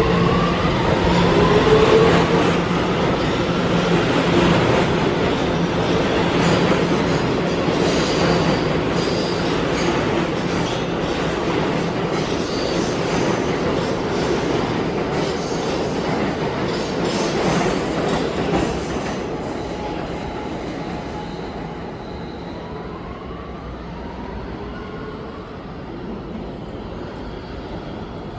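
New York City subway train pulling out of the station: traction motors whine upward as it accelerates, and wheels squeal and clatter on the rails. It gradually fades over the second half.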